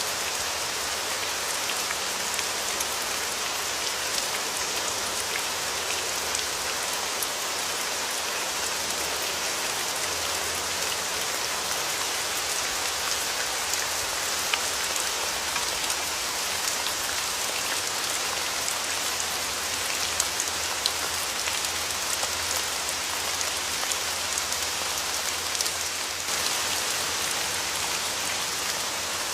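Steady rain falling, a dense even hiss with individual drops pattering and ticking on a surface throughout.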